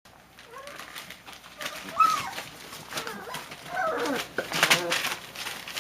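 Six-week-old Labrador retriever puppies whining and yelping, a string of short high calls that slide up and down in pitch, the loudest about two seconds in and again near the end, with light scuffling clicks.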